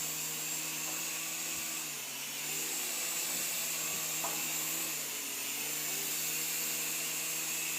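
Protocol Tiger Jet micro RC helicopter in flight: its small electric motors and spinning rotors making a steady high whine. The pitch sags briefly about two seconds in and again around five seconds.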